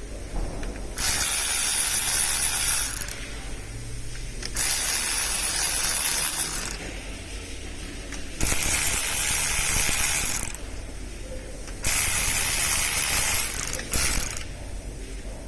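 Socket gun with a 19mm socket running in four bursts of about two seconds each, with short pauses between, undoing bolts during an engine teardown.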